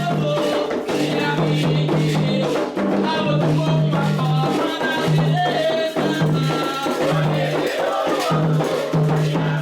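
Candomblé ritual music: singing over a steady beat of hand drums and shaken rattles.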